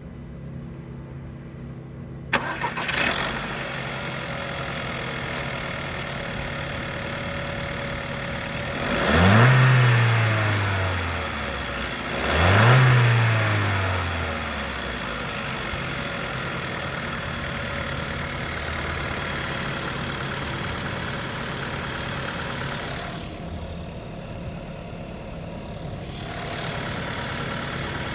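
2010 Volkswagen Golf engine starting about two seconds in, then idling steadily. It is revved briefly twice, each rev rising and falling back, and settles back to idle.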